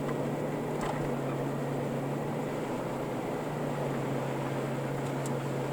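Steady engine and road noise heard inside a moving car's cabin: a constant low hum under an even rushing hiss.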